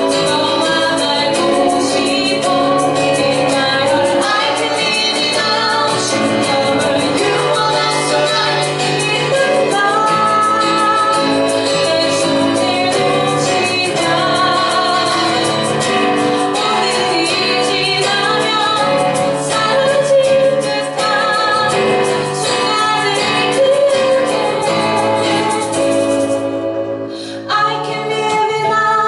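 A band playing a song live, with a woman singing the melody over the instruments. The music thins briefly near the end, then carries on.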